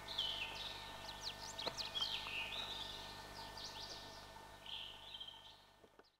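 Birds chirping and calling in quick, repeated short notes and sweeps over a faint steady background hum, fading out near the end.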